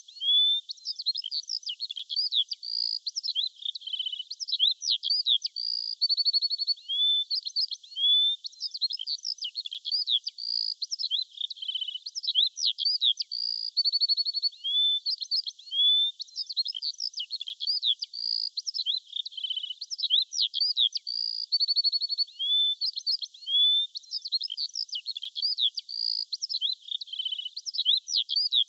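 Birdsong: several birds chirping, with quick sweeping notes and rapid trills overlapping without a break, all high-pitched.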